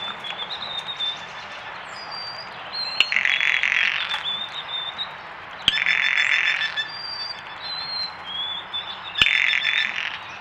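Female blue jays giving their dry rattle call three times, each burst about a second long with a sharp click at its start. Between the rattles a white-throated sparrow sings thin, high whistled notes that are hard to pick out.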